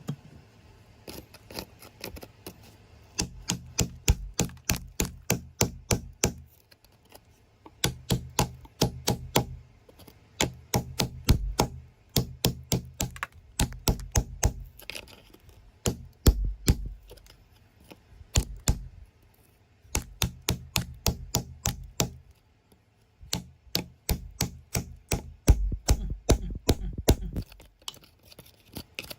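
A metal hand tool tapping and chipping at rock and hardened earth in quick runs of sharp strikes, about four a second, with short pauses between runs and a low rumble under each run.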